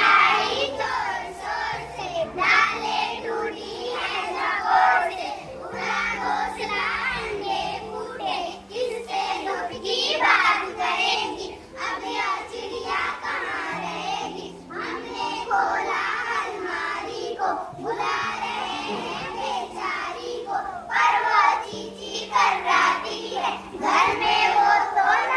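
Children's voices singing a Hindi poem together in a sing-song phrasing, over held low notes of an instrumental accompaniment.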